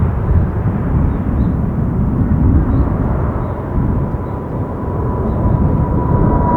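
Boeing 777 jet engines heard outdoors as a loud, deep rumble, with a steady whine that grows stronger over the second half.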